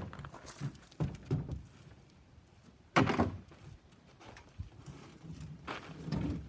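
Magnet-fished scrap metal being tossed onto a hand cart: a few sharp clanks and thuds, the loudest about three seconds in, with softer knocks and rattling between.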